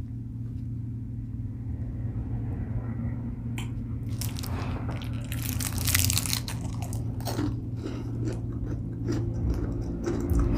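Close-up biting, crunching and chewing of a light chocolate treat with a hazelnut filling. Crisp crunches come thickly from about four seconds in, over a steady low hum.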